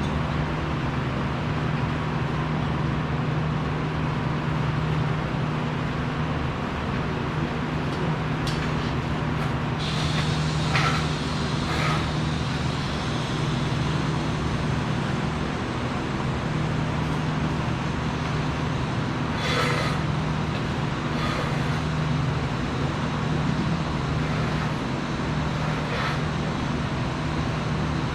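Steady machinery drone with a constant low hum over a hiss, broken a few times by short sharp knocks.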